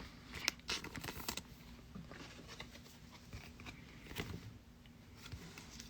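Faint, scattered clicks and rustles of trading cards being handled and set down, busiest in the first second and a half.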